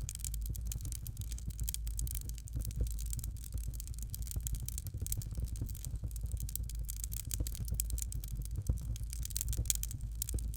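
Fireplace fire crackling, with dense, irregular small pops and snaps over a steady low rumble.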